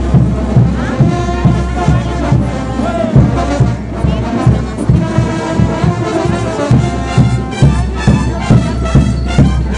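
Brass band playing diablada dance music: brass instruments holding melody notes over a steady drum beat.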